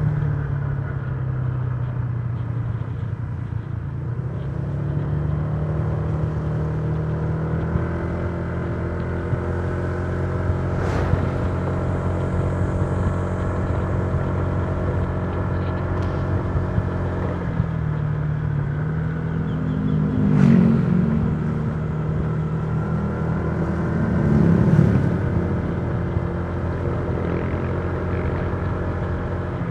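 Honda Giorno 125 scooter's single-cylinder four-stroke engine running under way, its note dipping and rising with the throttle. There are two brief louder swells, about twenty and twenty-five seconds in.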